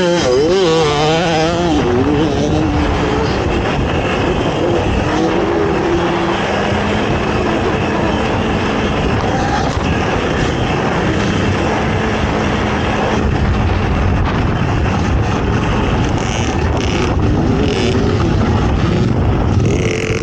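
Racing ATV engine running hard, its pitch rising and falling with the throttle in the first couple of seconds, then holding fairly steady.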